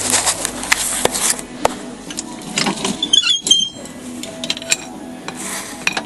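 Metal tools and hardware clinking and clattering, many sharp clicks and knocks bunched near the start, with a short burst of high ringing clinks about three seconds in.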